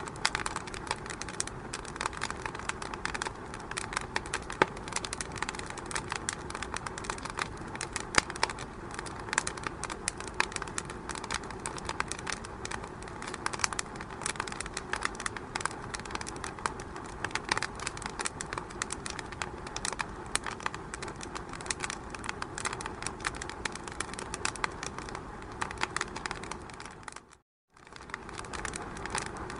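Wood fire in a fireplace crackling: dense, irregular pops and snaps over a steady hiss. The sound cuts out for a split second near the end, then carries on as before.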